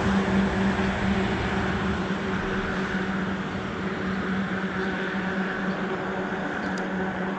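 A vehicle engine idling steadily: a constant low hum with a noisy wash over it, easing a little in level over the first few seconds.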